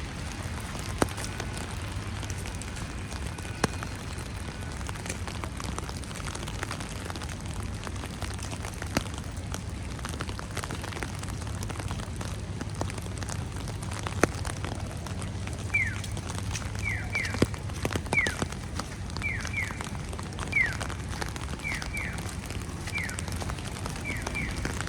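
Steady patter of falling wet snow, with scattered sharp drips. From a little past halfway a bird calls over and over, short falling chirps in quick runs.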